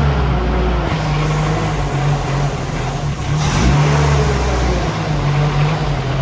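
1989 Toyota pickup's engine running smoothly after being started, its low note swelling for a moment twice.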